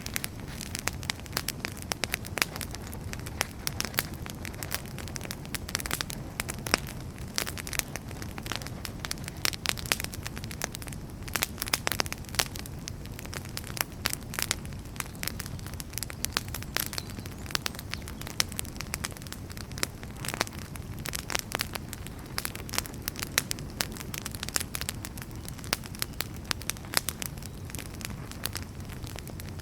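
Wood fire crackling: a steady low rumble of burning firewood with frequent irregular sharp pops and snaps.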